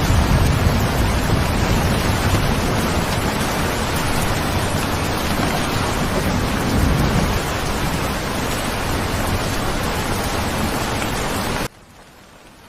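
Steady heavy rain, an even hiss with a low rumble underneath. About a second before the end it cuts off abruptly to a much quieter rain hiss.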